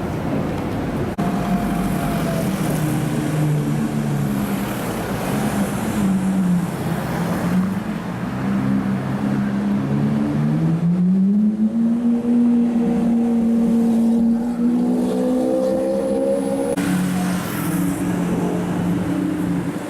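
Supercar engine revving and pulling away, its pitch dipping, then climbing and holding high before dropping suddenly near the end.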